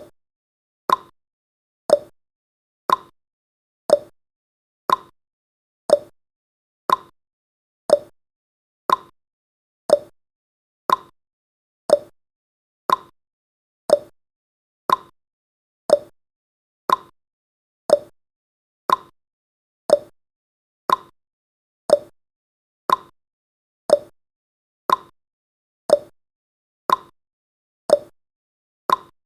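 A countdown timer's clock-tick sound effect: one short, sharp tick every second, steady and evenly spaced.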